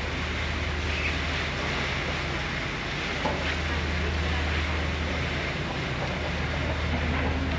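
Steady low hum of an idling train at a railway station, over an even background noise.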